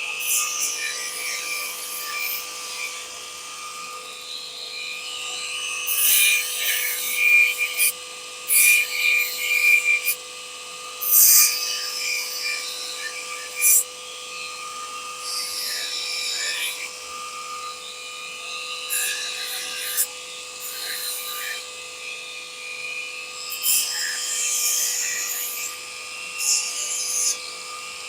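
Belt sander running with a steady whine, its belt rasping against panel steel in irregular bursts as it sands black paint off the strip.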